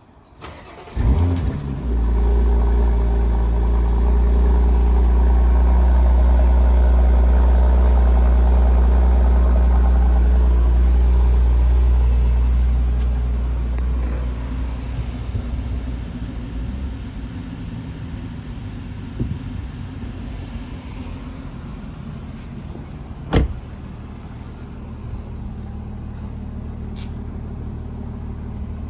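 Porsche Macan S turbocharged V6 cold start: the starter cranks briefly and the engine catches about a second in, then runs at a loud, steady fast idle. About halfway through the idle drops and settles quieter as the engine warms, and a single sharp click sounds late on.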